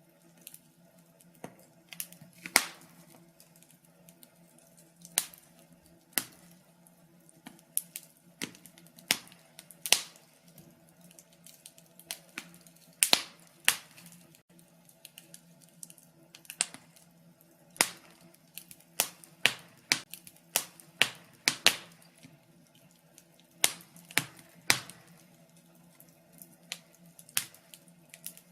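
Wood fire crackling in a fireplace: irregular sharp pops and snaps, some loud, clustering around the middle of the stretch, over a faint low steady hum.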